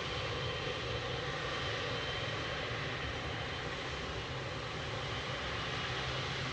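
Steady sound of aircraft engines running on the airfield, an even rumble with a faint thin whine above it.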